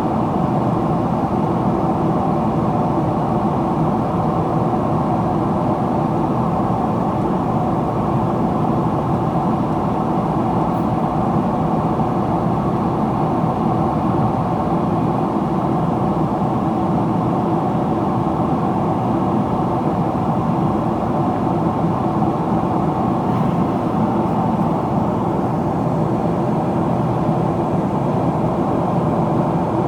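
Steady cabin noise inside a Boeing 777-300ER in descent: a rush of airflow over the fuselage mixed with the hum of its GE90 engines.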